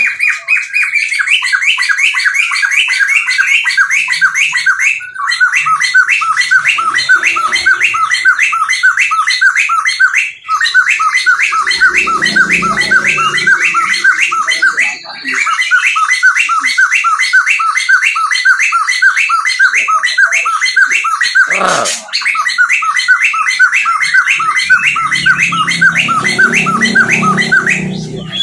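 A songbird singing a long, rapid run of evenly repeated notes, about four or five a second, pausing briefly every few seconds and starting again.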